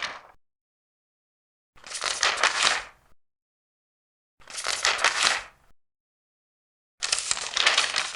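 Large paper pages being turned one after another: each turn is a papery rustle and flick lasting just over a second, three in a row about two and a half seconds apart, with dead silence between.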